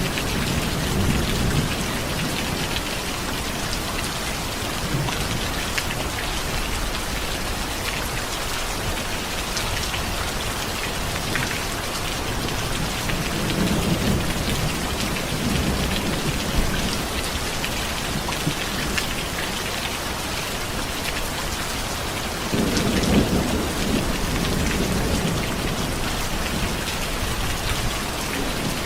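Steady rain falling, with low rolls of distant thunder: one fading at the start, one swelling around the middle, and one breaking in more suddenly about three-quarters of the way through.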